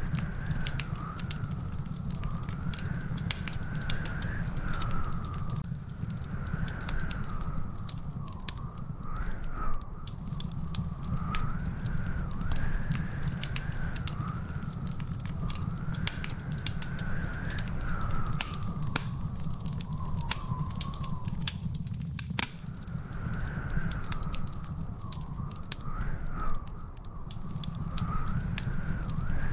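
Wood fire in a fireplace crackling, with irregular sharp pops over a steady low rumble; a couple of louder pops come about a third of the way in and near the end. A wavering whistling tone runs through it all the while.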